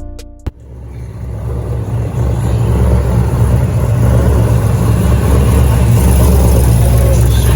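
Car engine running hard with a deep exhaust rumble, building up over the first couple of seconds and then holding steady and loud. A few plucked guitar notes end about half a second in.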